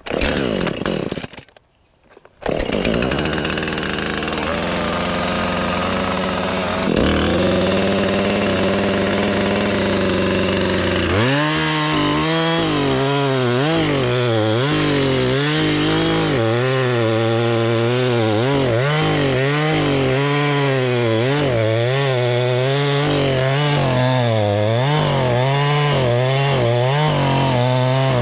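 Chainsaw engine runs after a short burst and a brief pause near the start, steady at first. From about ten seconds in its pitch rises and dips over and over, as it does when the chain is working through firewood logs.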